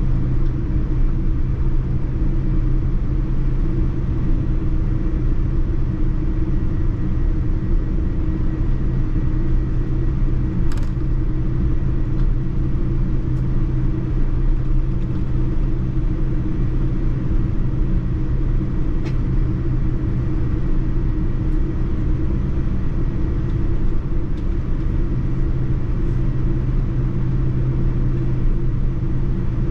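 Boeing 787-9 cabin noise: a steady, loud jet-engine rumble and hum that holds unchanged, with a few faint clicks.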